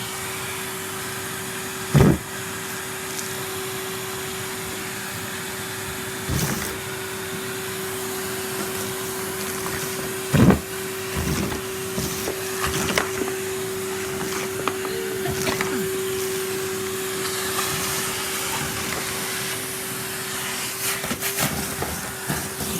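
Numatic Henry cylinder vacuum cleaner running steadily with a constant motor hum and rush of suction, pulling well with its hose unblocked. Two loud knocks come about 2 and 10.5 seconds in, with scattered small clicks and rattles later on.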